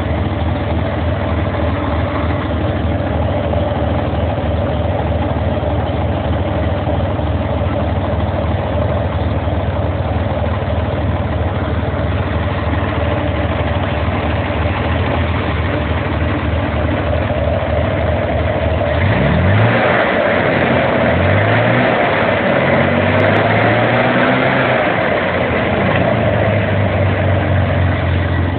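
Chevrolet Corvair air-cooled flat-six running on an engine stand, idling steadily. About two-thirds of the way through it is revved in several blips, the pitch rising and falling, then it settles back to a steady idle near the end.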